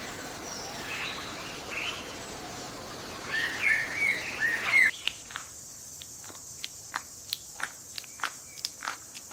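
Birds chirping and calling over a steady background hiss, louder for a moment about three and a half seconds in. About five seconds in the background drops away suddenly and a run of short, sharp chirps follows, about two a second.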